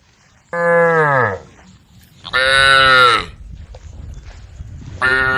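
Cows mooing, calling to the herd: three loud calls about a second long each, each sliding down in pitch, the third starting near the end.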